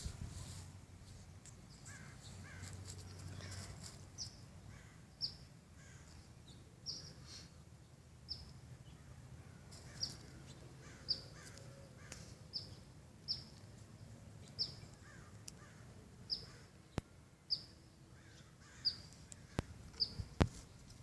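A bird calling in short, high notes repeated about once a second, over faint background noise, with a few sharp clicks near the end.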